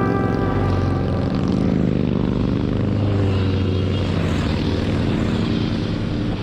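Motorcycle engines running in a steady low drone, as a group of bikes rides.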